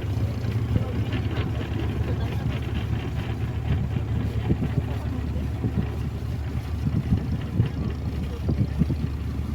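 Riverboat engine running steadily, a low drone with irregular thuds over it.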